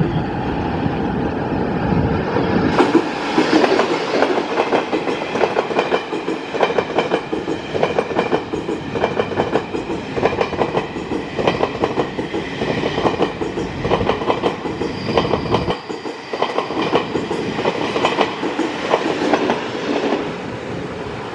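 Passenger train running through a station, its wheels clicking rapidly over the rail joints, with a steady high-pitched whine over the clatter.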